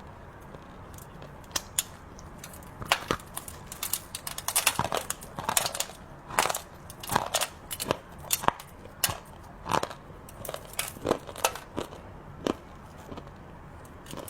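Close-miked crunching of hard chocolate sweets being bitten and chewed: a run of sharp crackling crunches that is densest in the middle and thins out towards the end.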